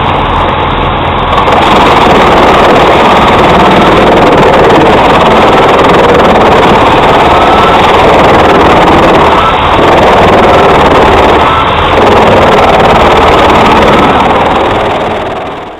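Pezzolato PTH 1000/1000 truck-mounted drum chipper, driven by its MAN truck engine, running loud and steady while chipping wood. There are two brief dips about ten and twelve seconds in, and the sound fades out at the very end.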